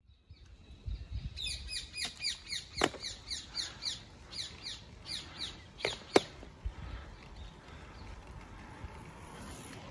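A bird calling in a rapid series of short falling notes, about three to four a second, from early on through the first half, with a couple of sharp clicks, the loudest about six seconds in, over a low rumble.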